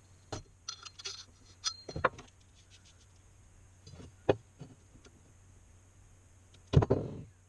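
Metal exhaust parts being handled: scattered clinks and knocks, then a louder clunk near the end that rings briefly.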